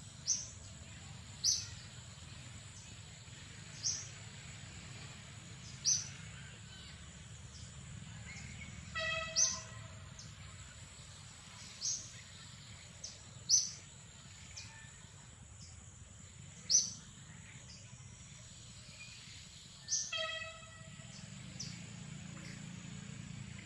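Short, sharp bird chirps repeating every second or two, over a steady thin high-pitched whine and a low rumble. Twice, about nine and twenty seconds in, a longer call with several pitched tones.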